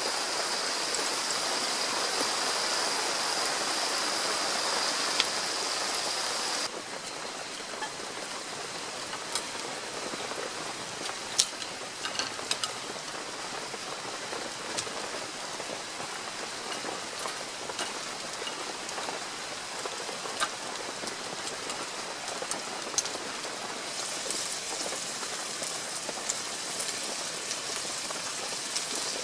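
Steady rain falling, with scattered individual drops landing as sharp ticks. About seven seconds in, the sound changes abruptly and becomes quieter.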